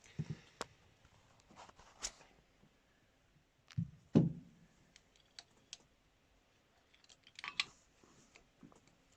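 Scattered metal clicks and light knocks of hand tools against the valve spring, retainer and collets during valve spring fitting, with a heavier dull knock about four seconds in and a quick run of clicks near the end.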